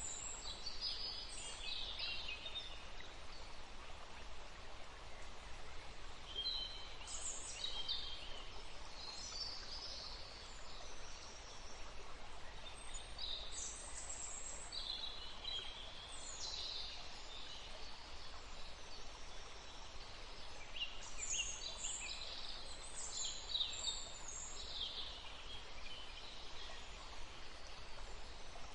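Stream flowing steadily in woodland, with songbirds calling in short bursts of high chirps on and off over it.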